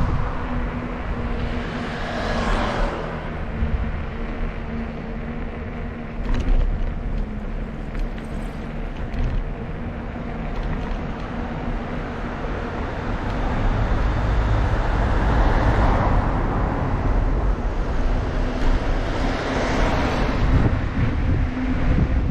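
Road traffic heard from a moving bicycle: cars pass about two seconds in and twice more near the end, over a steady low rumble of wind on the microphone.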